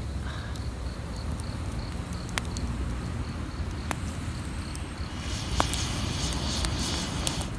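Wood campfire crackling, with a few sharp pops over a steady low rumble and a denser crackling hiss in the last couple of seconds. An insect chirps in a steady pulse, about four times a second, until a few seconds from the end.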